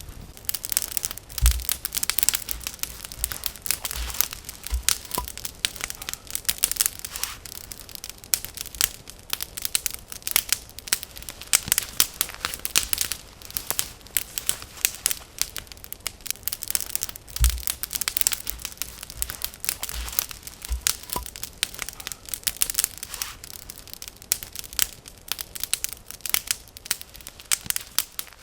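Wood fire crackling, with irregular sharp pops and an occasional low thump.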